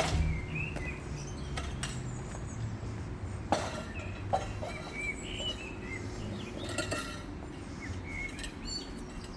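Scattered light clinks and taps over a low steady rumble, with faint, brief high chirps here and there.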